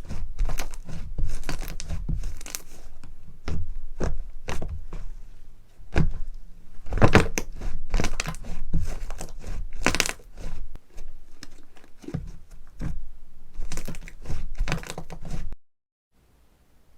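Hands squeezing and stretching slime close to the microphone: a dense run of crackling, popping squelches. Near the end the sound cuts off to dead silence for a moment and comes back quieter.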